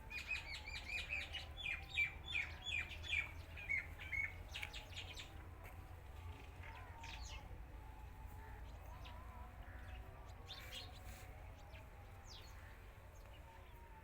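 Small bird calling: a quick run of repeated sharp chirps for the first four seconds or so, then a few scattered chirps.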